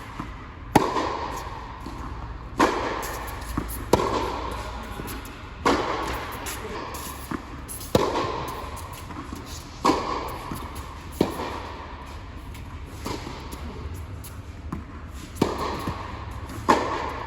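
Tennis rally: racquets striking the ball back and forth, about ten sharp hits roughly one every one and a half to two seconds, each leaving a short ringing echo.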